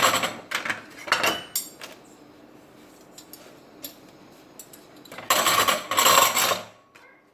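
Dishes and cutlery clattering as they are handled: a run of clinks and knocks in the first two seconds, a few light clicks, then a denser burst of rattling about five seconds in.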